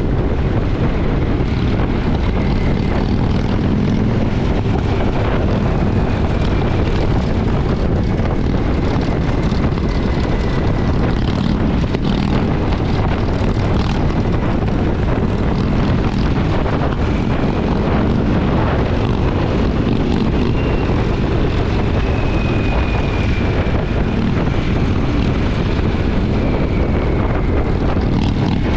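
Motorcycle engine running at a steady cruise, heard from a rider-mounted camera over a constant rush of wind.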